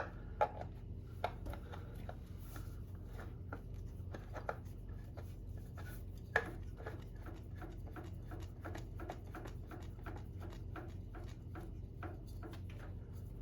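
Hands screwing a new oil filter onto a Harley-Davidson engine: a few sharp clicks, a louder one about six seconds in, then a run of quick light ticks and rubs, about four a second, as the filter is turned up its thread.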